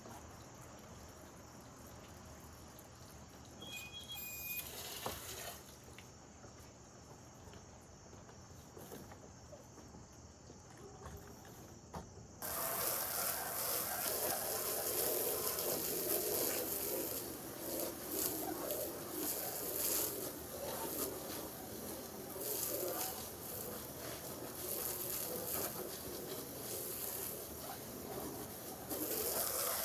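Faint evening insect chirring, then, about twelve seconds in, water suddenly starts gushing and splashing into a pool and keeps running steadily.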